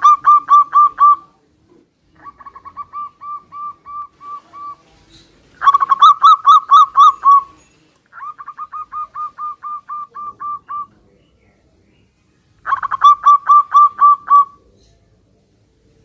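Zebra doves (perkutut) singing back and forth. Five phrases of quick, evenly repeated cooing notes, loud phrases alternating with quieter answering ones.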